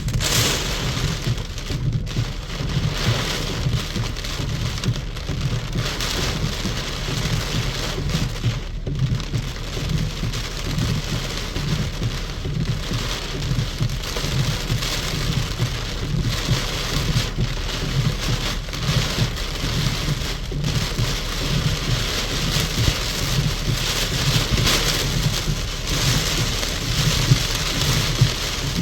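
Heavy rain from a severe thunderstorm falling steadily, in dense waves that swell and ease, over a constant low rumble.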